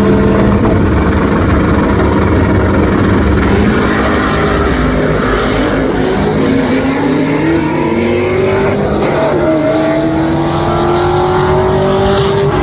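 Loud car engine noise. One engine's pitch climbs slowly from about six seconds in, drops sharply about nine and a half seconds in, then climbs again, like a car accelerating through a gear change.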